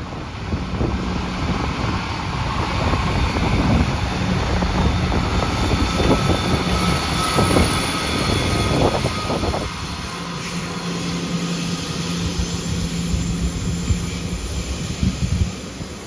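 A train passing close by: a loud, steady rushing with a low engine or motor hum, which drops away sharply about ten seconds in.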